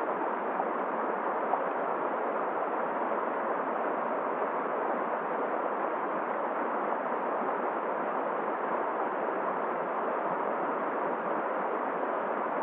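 Steady rushing noise of a flowing river and blizzard wind, with one brief tick about a second and a half in.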